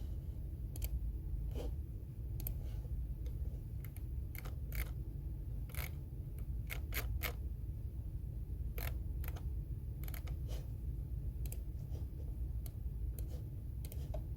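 Computer keyboard keys clicking in slow, irregular typing, a few keystrokes a second with pauses, over a steady low room hum.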